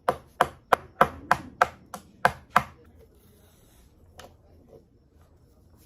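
A dig-kit excavation block being struck with the kit's small hammer: about nine quick, sharp taps at about three a second, stopping after under three seconds, then one faint knock.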